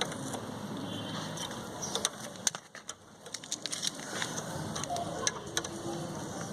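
Scattered light clicks and taps of hand tools working the new muffler's fitting on a motorcycle, over a steady background hum.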